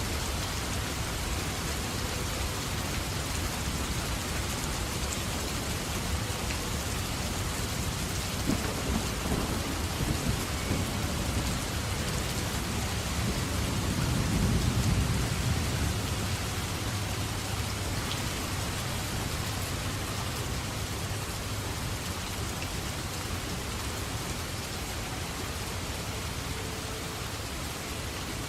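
Steady heavy rain falling, with a rolling rumble of thunder that builds about a third of the way in, peaks around the middle and fades away.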